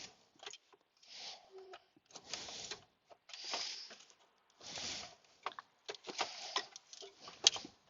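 Rustling and scraping of wiring and plastic parts being handled under a car's dashboard, in short bursts about a second apart, with scattered light clicks and a sharper click about seven and a half seconds in.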